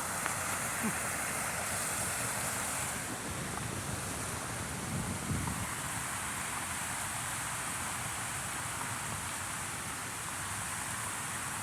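Steady hiss of falling rain, with a brief low rumble of wind on the microphone about five seconds in.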